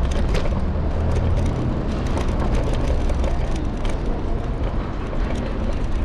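City street traffic and a steady low rumble of wind and road heard from a moving electric scooter's handlebar-mounted camera, with scattered clicks and rattles.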